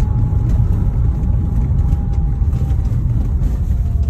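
Inside a Kia Sorento XM's cabin while driving: a thin whistle, coming and going and slowly dropping in pitch, over low road and engine rumble. The whistle sets in above about 40 km/h and seems to come from the rear behind the passenger seat. Its cause is unknown.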